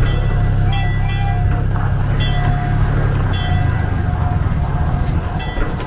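Narrow-gauge tourist train running along the track: a steady low rumble from the cars and wheels that eases about halfway through. Short high-pitched ringing tones come several times over it.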